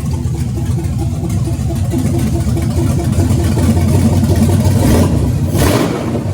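A Chevrolet LS1 5.7-litre V8, freshly swapped into a car, running steadily on its first start, with a slight swell in level about four seconds in.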